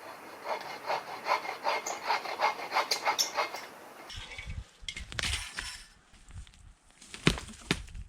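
Hand saw cutting through a large tree trunk in quick back-and-forth strokes, about three a second, for the first four seconds, then stopping. A few knocks and a brief rustle follow as the felling cut nears the point where the tree goes over.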